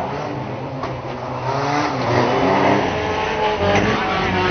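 Several banger-racing cars' engines running and revving, with engine notes rising and falling over one another.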